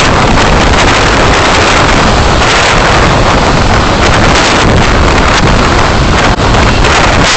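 Loud, steady wind and road noise from a moving car, picked up by a dashcam microphone, with a brief dip about six seconds in.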